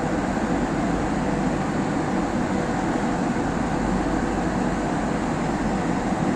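Passenger train in motion: a steady, even rumble of the train running on the track.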